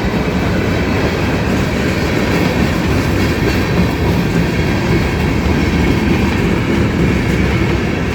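Mixed freight train cars rolling past, a steady noise of steel wheels running on the rails as the train slows to take the siding.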